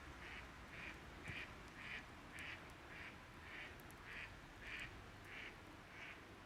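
An animal calling a short note over and over, about twice a second at a steady pace, with a few faint clicks like a campfire crackling.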